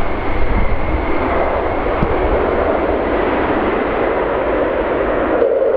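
Ryanair Boeing 737-800 jet engines running loud as the airliner passes close on its landing, a broad roar with a high fan whine that fades early on. The roar cuts off abruptly near the end.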